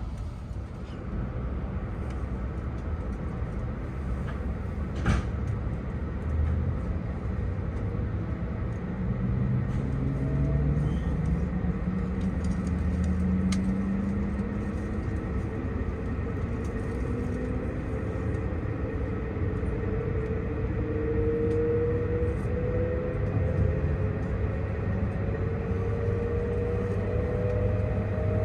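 Tohoku Shinkansen train heard from inside the cabin as it pulls away after a halt: a low running rumble, with the traction motors' whine rising steadily in pitch as it gathers speed from about nine seconds in. A single click about five seconds in.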